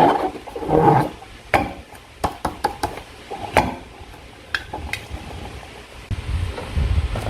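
Slime being squished and worked by hand, with wet squelches in the first second, then a run of sharp sticky clicks and pops, and a low rumble near the end.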